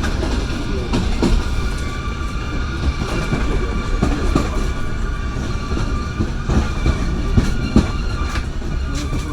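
Passenger train carriage riding along the track: a steady low rumble of wheels on rails, with a thin steady whine above it and irregular clacks of the wheels over rail joints.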